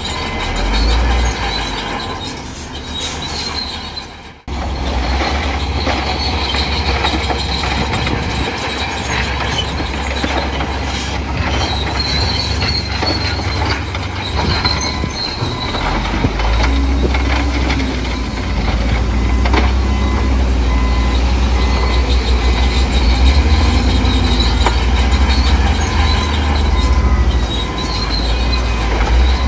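Crawler bulldozer at work: the diesel engine runs with a deep rumble under the high squeal of its steel tracks. The sound cuts out briefly about four seconds in.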